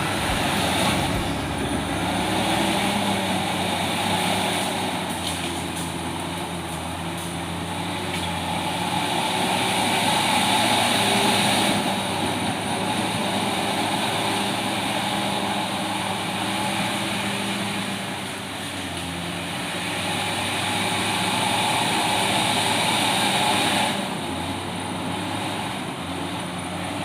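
Komatsu D68ESS crawler bulldozer's diesel engine running under load as the dozer cuts a rough road. The engine swells and eases several times as the load changes.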